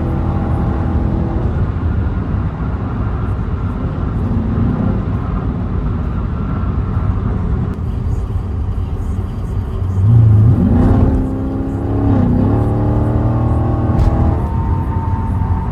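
V8 car engine and exhaust running steadily at cruise, then about ten seconds in the revs climb in a rising pitch. The pitch dips briefly and climbs again, as on an upshift under acceleration.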